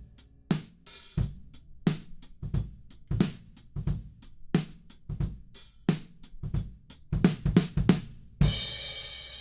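Drum kit track playing a steady groove of kick, snare and hi-hat hits, with a quick fill near the end ending on a crash cymbal that rings and fades.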